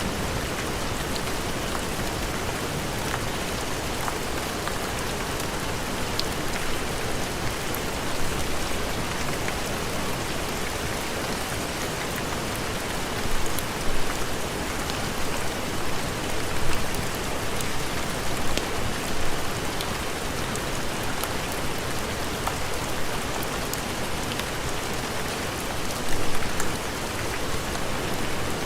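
Steady heavy rain, a dense even hiss, with a few brief louder swells.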